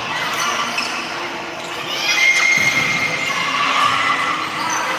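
Spectators' high-pitched shouts and cheers ringing through an indoor sports hall, loudest from about two seconds in.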